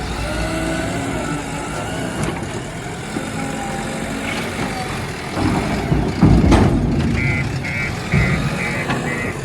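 Heavy diesel machinery running: a backhoe loader and tipper trucks working. The engine noise surges louder about six seconds in, and a reversing alarm starts beeping steadily near the end.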